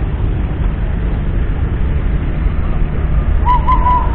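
The 14.0-litre six-cylinder diesel of a 1976 Kenworth W900 running with a steady low rumble. Near the end comes a short high-pitched sound, three quick rising-and-falling notes.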